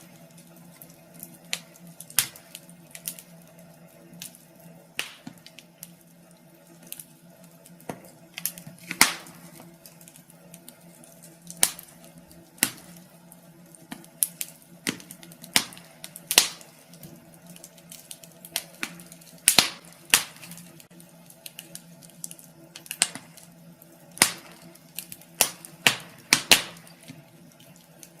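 Wood fire crackling in a fireplace: irregular sharp pops and snaps every second or so, some much louder than others, over a faint steady hum.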